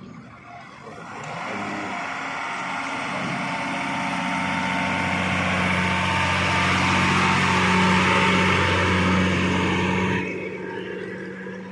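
Tata 14-wheel truck's diesel engine running with a steady low hum, growing louder over several seconds and then dropping off sharply about ten seconds in.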